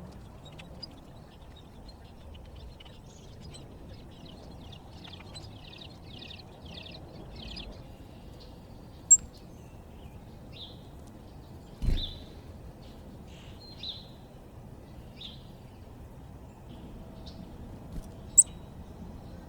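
Backyard birds chirping: a quick series of repeated high notes a few seconds in, then scattered single chirps, over a steady low outdoor noise. Two sharp high clicks stand out, and there is a thump about midway.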